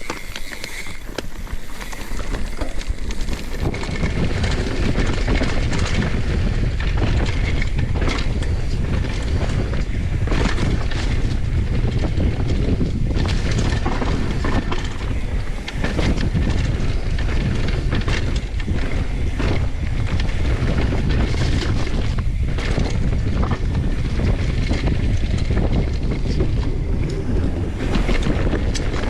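Wind buffeting the microphone: a loud, steady low rumble with a rushing hiss over it, building over the first few seconds and then holding.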